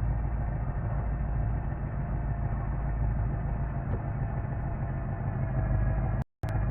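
A truck engine running steadily, a low rumble. The sound drops out for a moment near the end.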